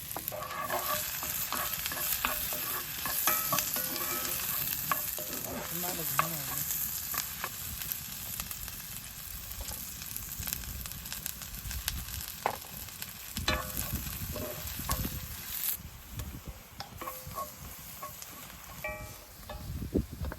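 Food frying and sizzling in a pan while a utensil stirs it, with scattered scrapes and knocks against the pan. The sizzling hiss drops away about three-quarters of the way through, leaving only the occasional knock.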